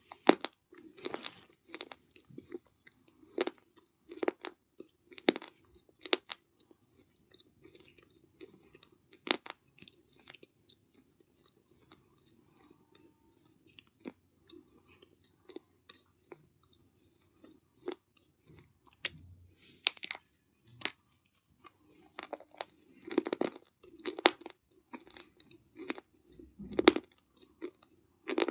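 Someone biting and chewing hard pieces of fired clay close to the mic: sharp crunches and snaps with chewing between them. The crunches come thickly at first, thin out in the middle, then come thickly again near the end.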